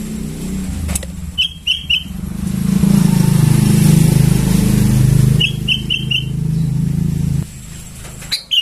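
Sooty-headed bulbul chicks giving short high begging chirps, three quick ones together and then four, with one more near the end. A motor vehicle engine runs underneath, louder than the chirps in the middle, and cuts off about seven and a half seconds in.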